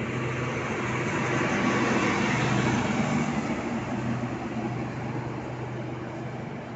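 Passenger train coaches rolling past on the rails as the train pulls out, with a steady low hum from the rear luggage, brake and generator power car. The sound swells about two to three seconds in, then fades as the last car moves away.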